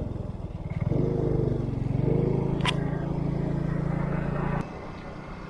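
A vehicle engine running at low, steady speed while driving slowly, with a steady low hum that drops off abruptly about four and a half seconds in. A short sharp chirp sounds about halfway through.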